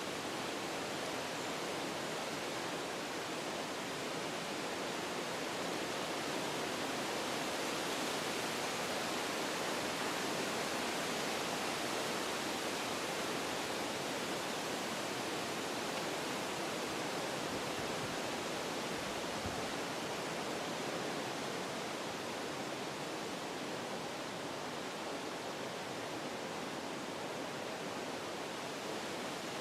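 Wind blowing through forest trees, a steady rushing of leaves and branches that swells a little and eases off again.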